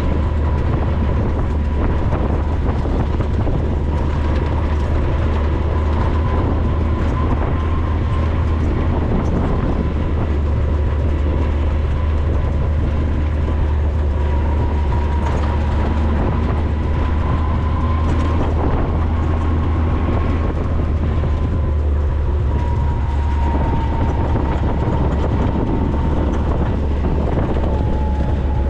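A 4x4 vehicle driving, with a steady low rumble and a faint high whine that drifts slightly in pitch.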